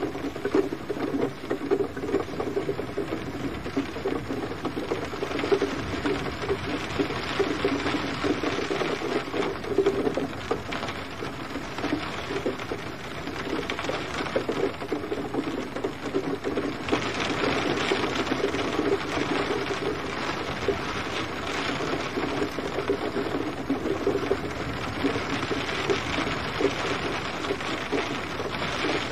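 Gentle rain falling steadily, with many fine drop hits.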